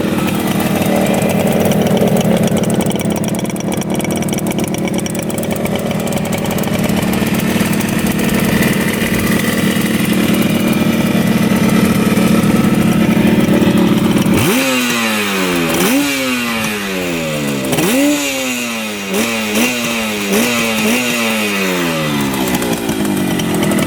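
1975 Yamaha RD200 two-stroke twin idling steadily, running cleanly on both cylinders. About halfway through the throttle is blipped about six times in quick succession, the revs jumping up and dropping back each time before it settles to idle again.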